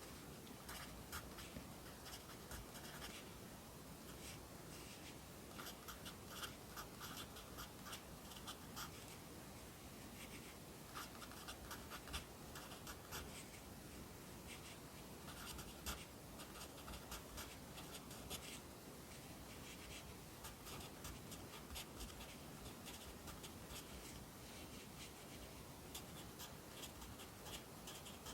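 Pencil writing Korean characters on paper: clusters of short, scratchy strokes with brief pauses between them.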